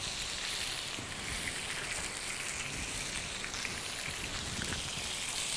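Oiled salmon portions searing on a hot ridged grill pan: a steady sizzling hiss with small crackling pops.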